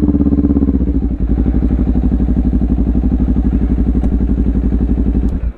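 Motorcycle engine idling close by with an even, rapid pulse, then switched off abruptly near the end.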